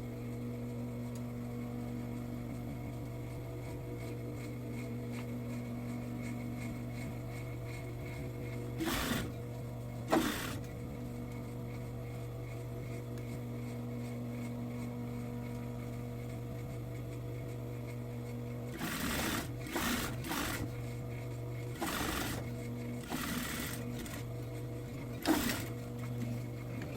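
Sewing machine running steadily with a low hum as a seam is re-stitched. A few short clicks and knocks come around the middle and several more near the end.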